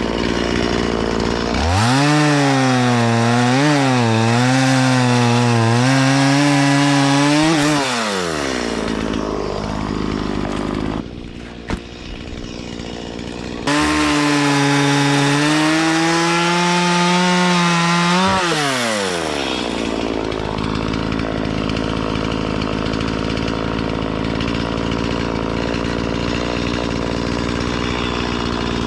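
Stihl chainsaw making two cuts into willow wood. It revs to full throttle, its pitch wavering as the chain bites for about six seconds, drops back, then revs through a second cut of about five seconds in the middle. After that it idles steadily.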